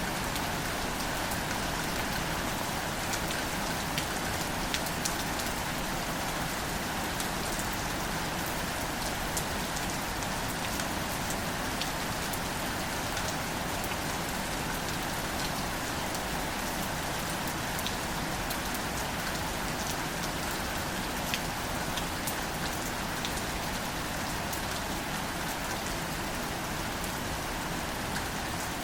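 Steady gentle rain falling on plants, a continuous hiss with many small individual drops pattering.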